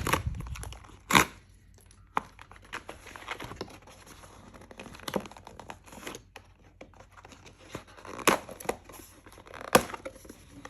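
Plastic wrapping and cardboard of a trading-card booster box being torn open and crinkled, with irregular sharp crackles and snaps, the loudest about a second in and near the end.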